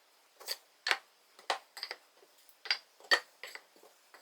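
Hardwood strips knocking lightly against each other and the bench as they are set down one after another, about ten short clacks at uneven intervals.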